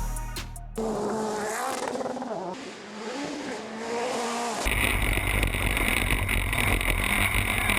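Rally car engine revving, its pitch rising and falling. About halfway through, an abrupt cut brings a louder, steady run of engine and road noise.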